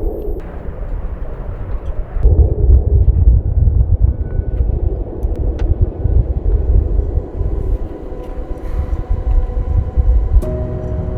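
Strong gusting wind, a loud low rumble that surges and falls in gusts. Background music comes in near the end.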